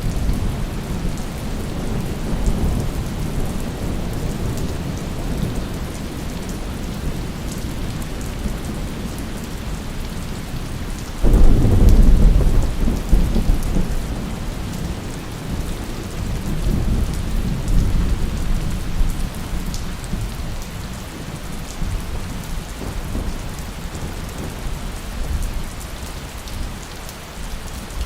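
Steady heavy rain with rolling thunder. About eleven seconds in, a loud thunderclap breaks out and rumbles away over several seconds, and a softer roll follows a few seconds later.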